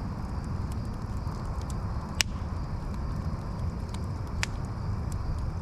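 Steady low rumbling noise with scattered sharp clicks, the loudest about two seconds in.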